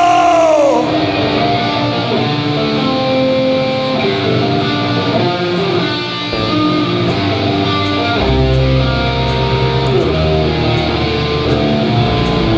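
Hardcore band playing live without vocals: a held note slides down in pitch at the start, then an electric guitar plays a riff. Heavier low bass notes join about eight seconds in, with faint ticks through the second half.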